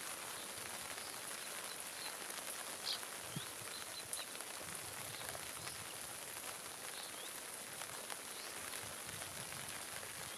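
Steady hiss of rain falling on grass and wetland, with a few faint, short, high bird chirps scattered through it.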